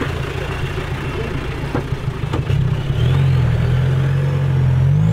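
Classic Range Rover's engine running at low revs under load, then revved higher and held from about halfway through, with a rising whine over it and a couple of short knocks.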